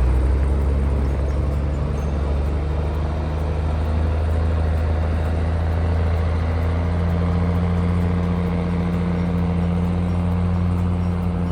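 An engine running steadily close by, a low, even hum whose tone shifts slightly about seven seconds in.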